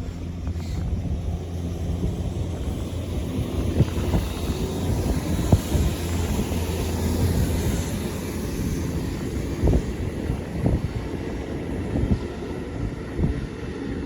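Sanyo Electric Railway 3050 series train running, heard from inside the carriage: a steady low rumble of wheels on rails with occasional sharp knocks from rail joints.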